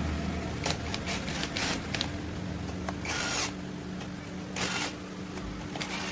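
Mechanical workshop sounds: several short scraping, rattling bursts from tools or parts being handled, over a steady low hum.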